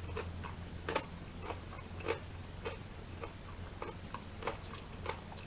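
Close-miked chewing: soft, wet mouth clicks at a regular pace of about two a second, over a steady low hum.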